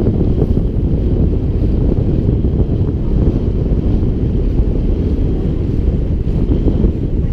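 Loud, steady wind rumbling on the microphone of a camera carried on a moving bicycle, caused by the rush of air at riding speed.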